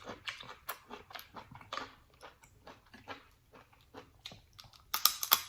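Close-miked eating of a sauce-drenched seafood boil: wet chewing and lip smacking in short irregular clicks, with a brief cluster of louder crackling clicks about five seconds in.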